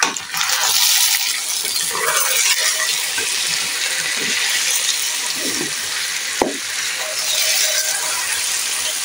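Diced potatoes sizzling steadily as they fry in a pan, stirred and turned with a spatula that scrapes against them and the pan now and then. There is a sharp knock about six and a half seconds in.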